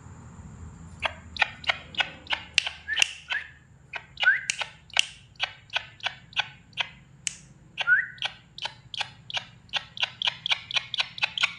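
Black-winged kite calling in a rapid series of sharp chirps, with a few short rising whistles mixed in. The calls quicken toward the end.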